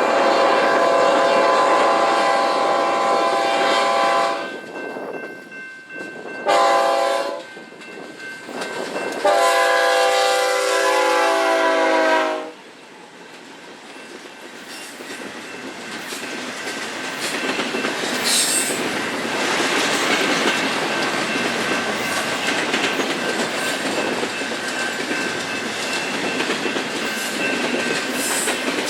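A diesel locomotive's multi-chime air horn sounds a long blast, a short blast and another long blast, in the pattern of a grade-crossing signal. The train then rolls past with steady wheel-on-rail noise and clickety-clack that grows louder toward the end.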